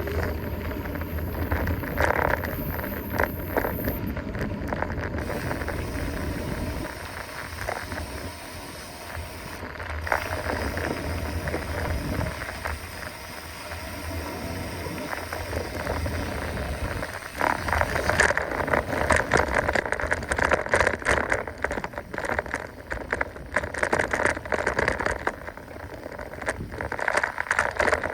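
Mountain bike riding along a dirt trail: tyres rolling and the bike rattling and clicking over bumps, getting louder and busier about two thirds of the way in.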